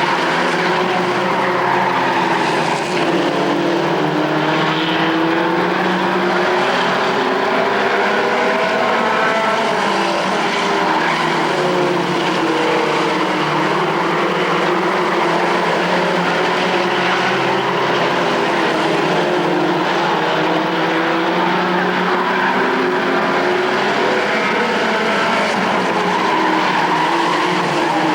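Several race trucks' engines running laps together. Their pitch rises and falls as they rev and pass, over a steady wall of engine noise.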